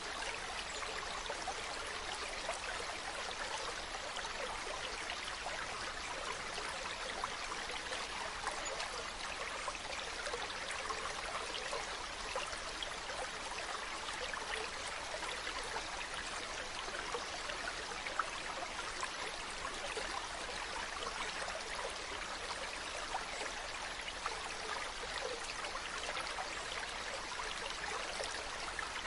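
Mountain brook running steadily: an even rush of water with a fine splashing texture and no pauses.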